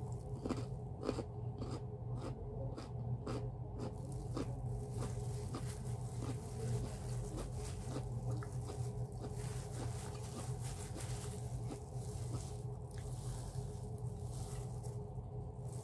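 Close-up chewing of a mouthful of rice and chicken: short wet mouth clicks, about two a second at first and then more spaced out. A steady low hum runs underneath.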